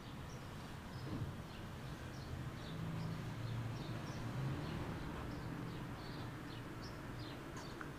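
Small birds chirping, many short high chirps a fraction of a second apart, over a low steady rumble.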